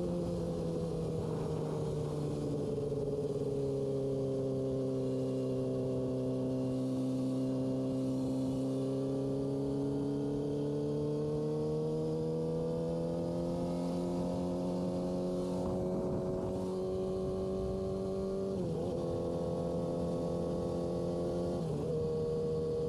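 Yamaha R6 inline-four sport bike engine running under way at steady mid revs. The pitch sinks slowly, then climbs gradually, with two brief breaks in pitch near the end.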